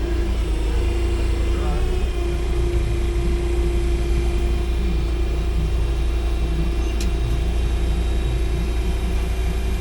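Semi truck heard from inside the cab while driving: a steady low engine drone and road rumble with a constant whine.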